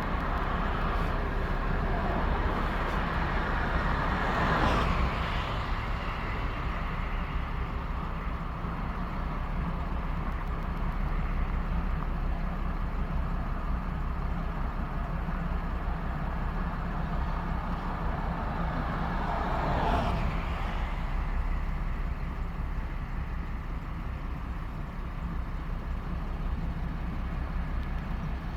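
Steady low vehicle rumble with two brief louder rushing swells, about four seconds in and again about twenty seconds in.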